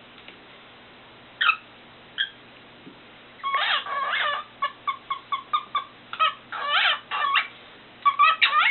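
Cockatiel singing: two single chirps, then from about three and a half seconds in a long run of pitched notes, including a quick string of short chirps, and a fast burst of notes near the end.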